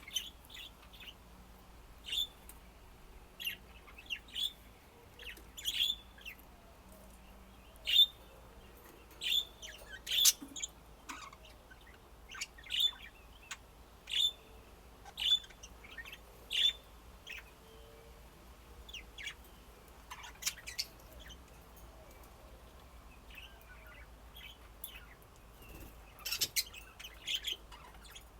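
Pet budgerigars chirping: short, sharp single chirps every second or so, thinning out past the middle, then a quick run of chirps near the end.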